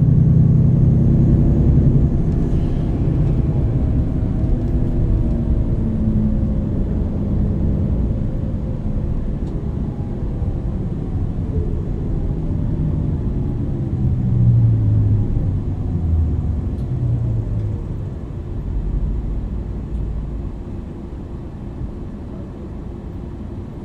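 MAN NL 323 city bus's inline-six diesel and ZF EcoLife automatic gearbox under way, the engine note rising and falling with the revs. It is loudest in the first couple of seconds and gets quieter over the last several seconds as the bus eases off.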